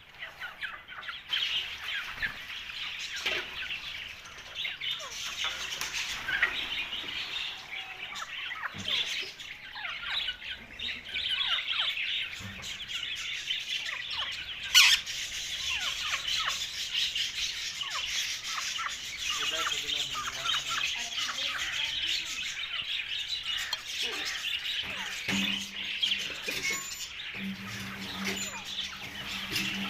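Ringneck parakeet chirping continuously in many short, high notes, with one loud, sharp call about halfway through.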